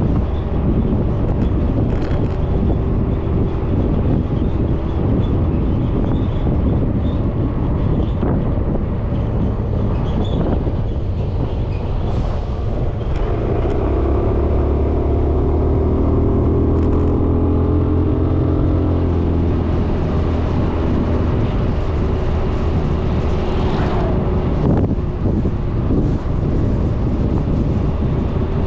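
Suzuki Burgman 400 scooter's single-cylinder engine running while riding, with steady wind rumble on the microphone. For several seconds in the middle a steady engine tone stands out more clearly above the wind noise.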